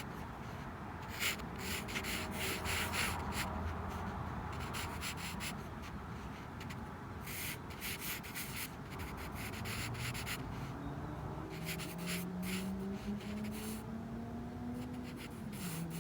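Pen scratching across sketchbook paper in short, quick strokes while drawing. Through the second half a low hum rises slowly in pitch, then drops just before the end.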